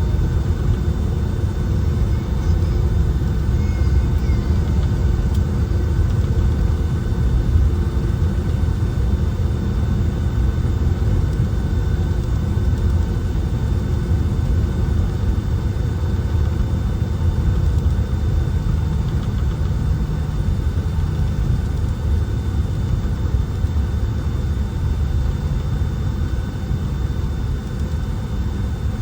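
Steady engine and air noise inside the cabin of a Boeing 757-200 airliner: a constant low rumble with a faint steady whine on top.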